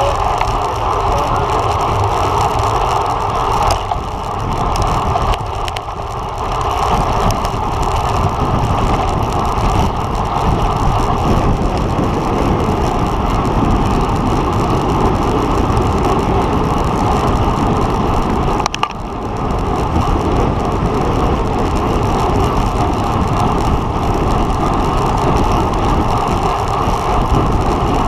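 Steady wind rush on the microphone of a camera riding on a road bike at race speed, with a short dip about two-thirds of the way through.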